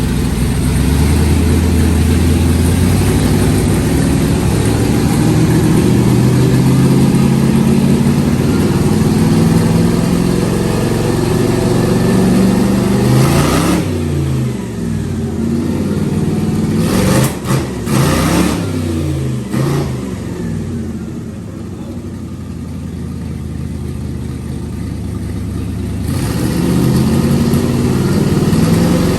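Twin-turbo, blow-through carbureted LS V8 in a Model T hot rod running loud and revving, the revs rising and falling. A few sharp cracks come about seventeen seconds in, the engine then settles lower for several seconds before climbing again near the end.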